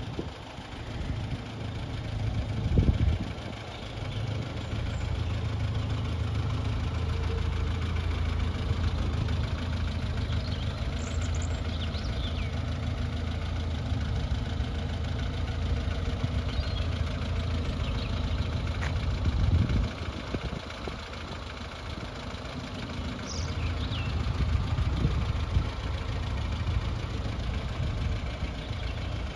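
1974 MG Midget's four-cylinder engine idling steadily, with a brief louder swell about three seconds in and another about two-thirds of the way through.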